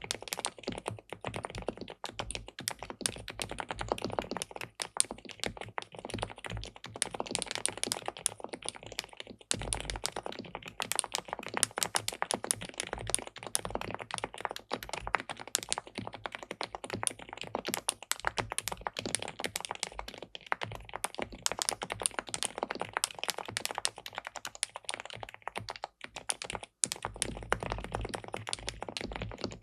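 Typing on an SPM Mongdol87 (PL87W) tenkeyless mechanical keyboard with linear switches and a PC plate: a fast, steady run of keystrokes, with a couple of brief pauses.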